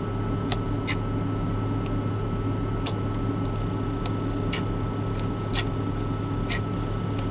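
Small knife cutting pickles into chunks, making a few light, scattered clicks against the cutting surface, over a steady low hum inside the truck cab.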